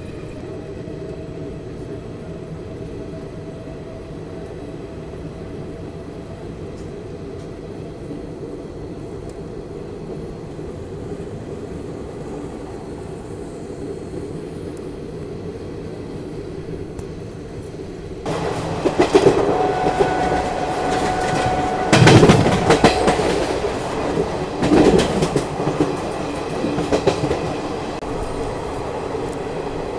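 Azad Hind Express passenger coach running along the line: a steady low rumble. About two-thirds of the way in it turns suddenly louder and brighter, with the wheels clattering and sharp knocks, loudest a few seconds later.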